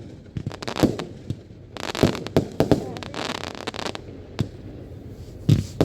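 Fireworks bursting overhead: a string of irregular bangs, some followed by crackling.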